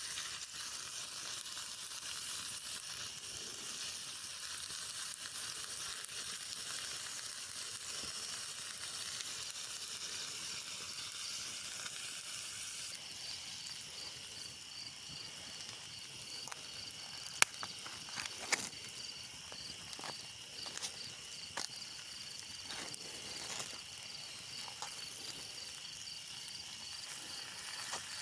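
Steak, peppers and onions sizzling as they fry in a pan, a steady hiss. About halfway through a rapid, high-pitched pulsing trill joins in, and a few sharp clicks sound in the second half.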